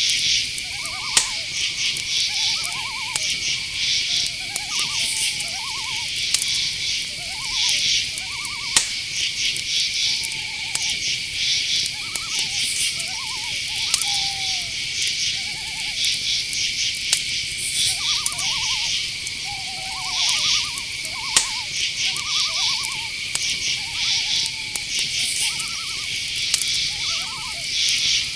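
Night-forest chorus: crickets trilling steadily, a high continuous tone with pulsing chirps over it, while short hooting owl calls repeat every second or so, some sliding down in pitch. A few sharp clicks stand out.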